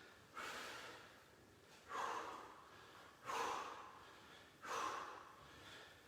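A man breathing out hard in rhythm while exercising, one forceful, hissing exhale about every second and a half, each starting sharply and fading.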